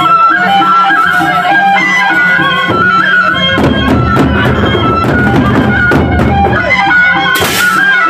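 Gendang beleq ensemble playing: a held, stepping melody line over the big drums and cymbals. The drumming grows denser through the middle.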